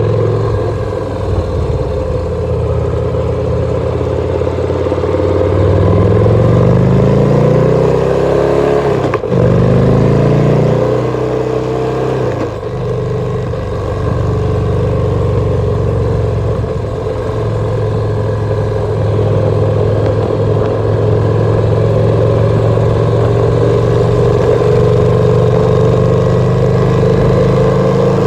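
2014 Victory Cross Country motorcycle's V-twin engine under way. It pulls up through two gears, the pitch rising and dropping at each shift about nine and twelve seconds in, then runs steadily at cruising speed.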